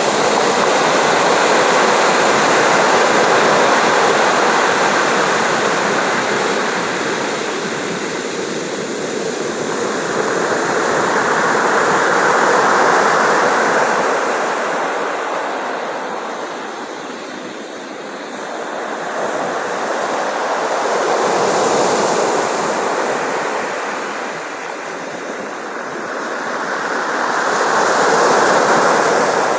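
Ocean surf: a steady rushing wash of waves that swells and fades, cresting about every eight to nine seconds.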